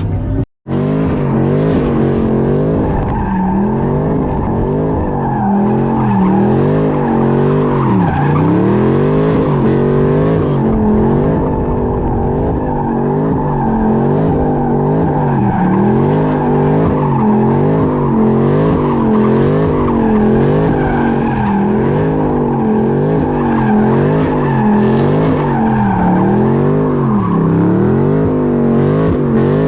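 Car engine revving up and down over and over while its tires squeal and skid: a car sliding in circles. The sound cuts out for an instant just after the start.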